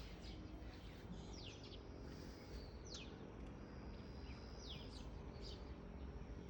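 Birds chirping over a steady low background noise: a few short high chirps that fall quickly in pitch, spaced a second or so apart, and one held high whistle a little past the middle.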